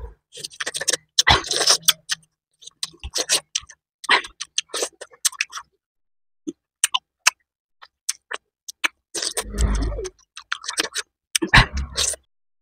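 Close-miked eating sounds: chewing and lip smacking, heard as irregular runs of sharp, wet clicks, with a fuller, heavier stretch of chewing about nine seconds in.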